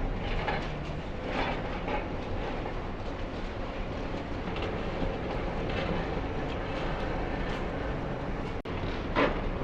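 High-reach demolition excavator at work. Its engine runs steadily while scattered short crunches and clanks come from its jaw cutting through the concrete building.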